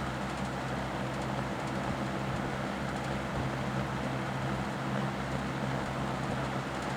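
Electric box fan running steadily at speed: an even rush of moving air over a low, steady motor hum.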